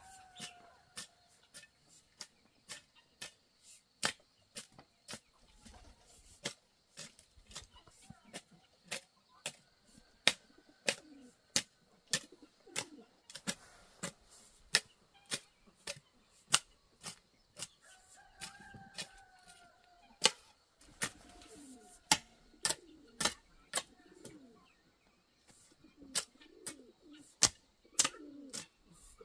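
Sharp knocks repeating about twice a second, with poultry such as chickens calling faintly underneath and more calls near the end.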